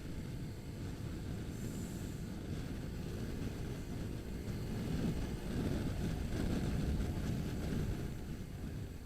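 Motorcycle running on the move, its engine rumbling under wind buffeting on the microphone, growing louder from about five seconds in and easing near the end.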